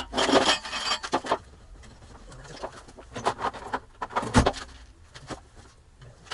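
Metal clinking and rattling from hand tools and fasteners under the vehicle, in short irregular bursts, with one sharp knock about four and a half seconds in.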